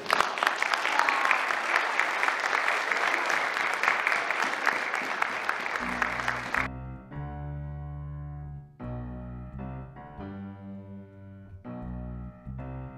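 Congregation applauding with dense clapping that stops suddenly about seven seconds in; piano music with held bass notes starts just before the clapping ends and plays on.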